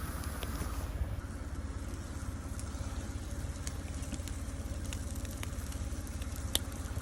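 Car engine idling: a steady low rumble with a rapid even pulse, with scattered faint clicks and one sharper click about six and a half seconds in.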